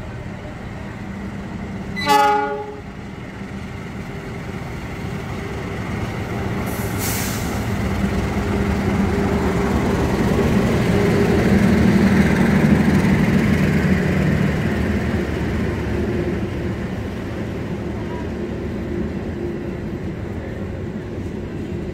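Long-distance passenger train sounding a short horn blast about two seconds in, then running past with a low rumble of wheels on rail that builds to its loudest midway and eases off. A short hiss comes about seven seconds in.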